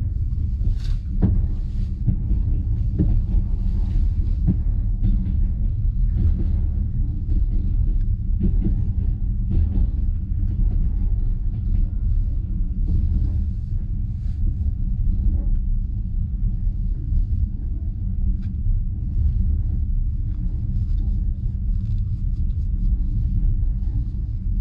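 Steady low rumble of a passenger train carriage running along the track, heard from inside the carriage, with scattered light clicks and knocks.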